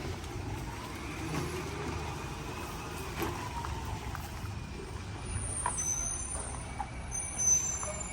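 A vehicle engine rumbling steadily at low pitch, with a few faint ticks and thin high whistling tones joining in the second half.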